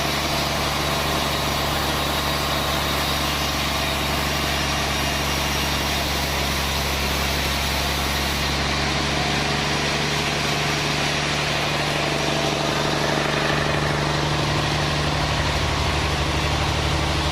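Sawmill machinery running steadily with a constant mechanical hum, shifting slightly about two-thirds of the way through.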